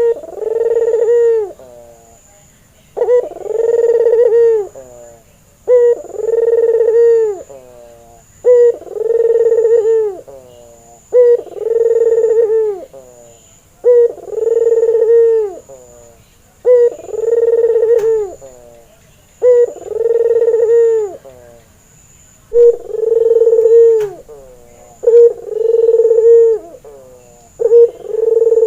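Barbary dove (ringneck dove) cooing over and over, about once every three seconds. Each call is a short note followed straight away by a longer, steady coo.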